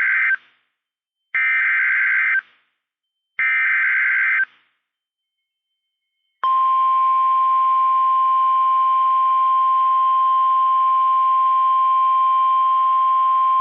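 NOAA Weather Radio emergency alert signal: short screeching digital data bursts (the SAME header announcing a severe thunderstorm warning), the end of one and then two more about a second apart, followed after a pause by the steady single-pitch 1050 Hz warning alarm tone starting about six seconds in.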